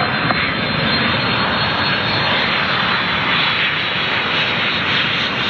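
Airliner's jet engines heard close by as a plane passes, a loud, steady rush of noise.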